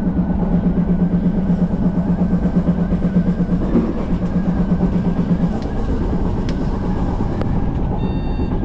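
Odakyu Line commuter train running on the track, heard from on board: a steady rumble of wheels on rail with a low droning hum that flutters rapidly and stops about five and a half seconds in. A brief high electronic tone sounds near the end.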